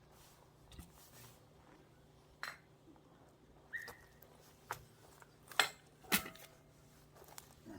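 Scattered sharp wooden knocks and clacks from firewood being split with an axe and the split pieces handled, about six at uneven spacing, the loudest two close together past the middle.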